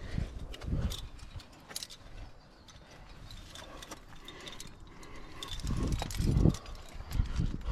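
Metal climbing gear (carabiners and quickdraws on a harness) clinking and jingling as the climber moves up the rock. Low gusts of wind buffet the microphone, strongest about six seconds in.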